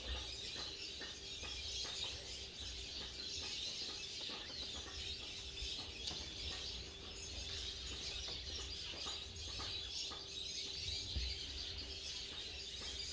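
Outdoor bird chorus: many birds chirping steadily, with scattered short calls throughout.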